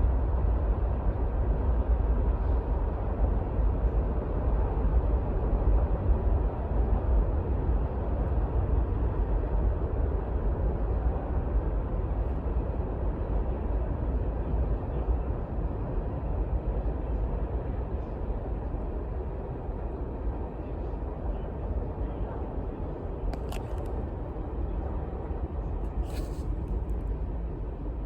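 Manifest freight train rolling past: a steady rumble of steel wheels on rail that slowly eases off toward the end, with two short high clicks near the end.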